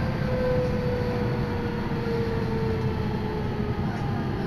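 Electric commuter train heard from inside the carriage: a steady low rumble of running on the rails, with a faint whine that slides slowly down in pitch.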